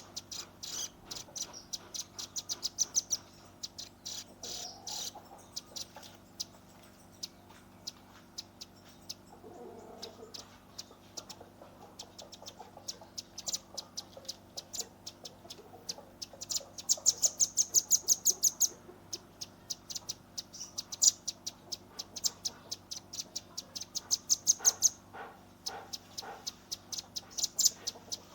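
Velvet-fronted nuthatch (red-billed rambatan) giving rapid-fire strings of sharp, high, dry calls, several a second, in bursts with short pauses between. The loudest fast trains come about two-thirds of the way through and again near the end.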